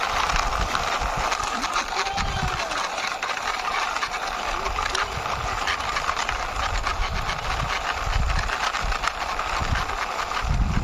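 Toy fire truck pushed along by hand, its plastic wheels rolling and rattling over the surface: a steady rough noise full of small ticks, with occasional low thumps.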